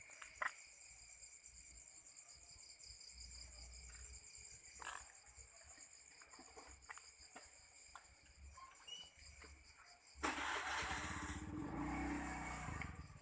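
Crickets chirring steadily, with a few faint clicks. About ten seconds in, a motor vehicle's engine comes in much louder and keeps running.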